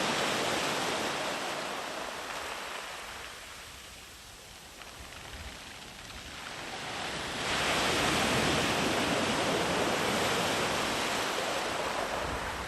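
Sea waves on a beach: the wash of surf fades to a lull in the middle, then the next wave breaks about seven seconds in and rushes up the shore with a loud, steady hiss.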